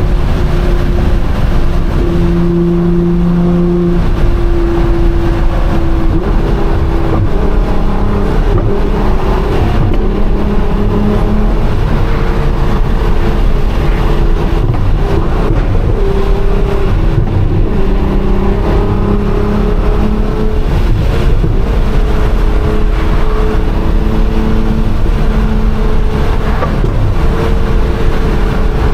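Nissan GT-R R35's modified twin-turbo V6 droning at highway cruise, heard inside the cabin over tyre and road noise. Its pitch shifts a little up and down every second or two with the throttle.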